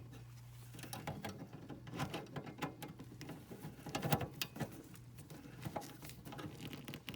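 Small irregular clicks, taps and scratching from hands working furnace wiring, reconnecting a wire to its terminal, over a steady low hum.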